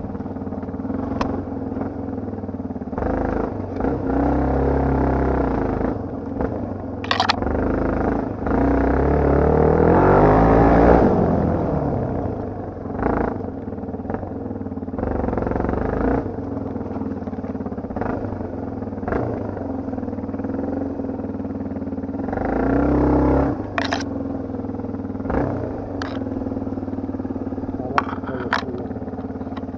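Off-road motorcycle engine running under way, revving up and easing off several times. A few sharp knocks and some clatter come through along with it.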